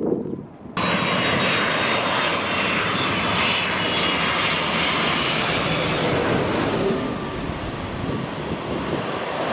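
Jet airliner passing low overhead as it comes in to land, a loud rush of engine noise with a high whine over it. It starts abruptly a little under a second in and is brightest about six seconds in.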